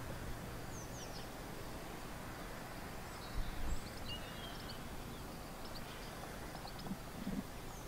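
Small birds chirping and twittering in short scattered calls over a steady outdoor hiss, with a few low bumps, the loudest about three and a half seconds in.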